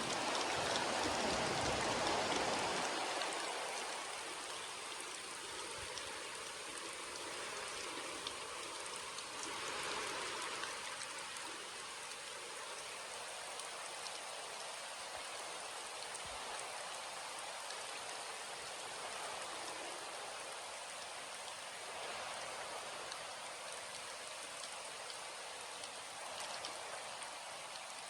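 Steady rain falling, a dense patter of drops hitting surfaces. It is heavier for the first few seconds, then settles to a steady, even patter.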